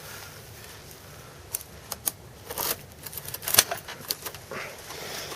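Rummaging and handling noises: irregular clicks, light clatter and rustling as small objects are moved about, busiest in the middle with the sharpest click a little past halfway.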